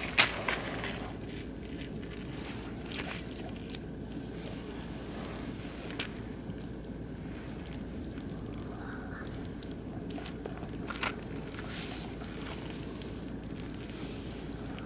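Oak and beech wood fire burning in a barbecue grill, with scattered sharp crackles and pops over a steady low background.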